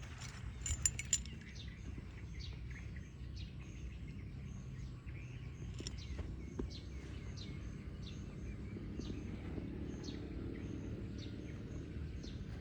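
Small birds chirping: short, high, falling chirps repeated every second or so, over a low steady rumble, with a quick cluster of clicks about a second in.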